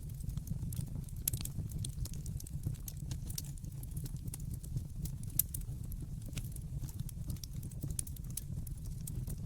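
Wood fire burning in a fireplace: a steady low rumble with frequent irregular crackles and pops, one sharper pop about five seconds in.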